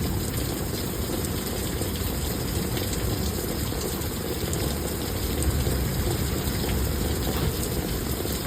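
Heavy thunderstorm rain pouring down steadily, with water rushing and running off.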